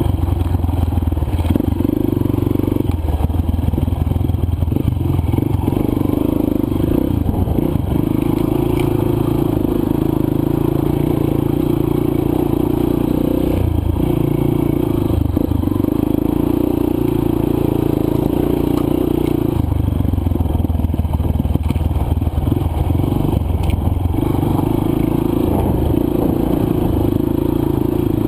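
Single-cylinder four-stroke dirt bike engine running under way on the trail, its note shifting every few seconds as the throttle is opened and closed.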